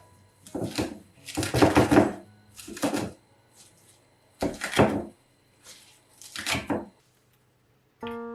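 Knife chopping on a cutting board in short runs of strokes with pauses between, about eight bursts in all.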